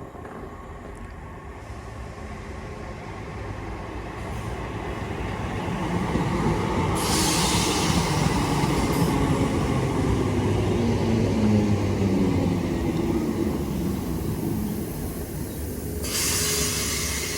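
Class 319 electric multiple unit arriving and slowing into the station, its rumble growing louder for several seconds and then easing as it draws to a stop. A hiss comes in about seven seconds in and again near the end.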